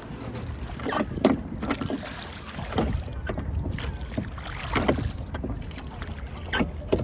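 Rowing boat on a lake: irregular splashes and knocks of the oars over a steady low rumble.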